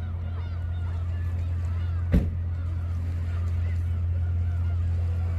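Many gulls calling in short arched cries over a steady low hum. A single sharp knock sounds about two seconds in.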